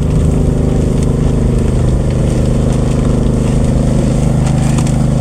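Engine running steadily at a constant speed, a loud even hum with no change in pitch.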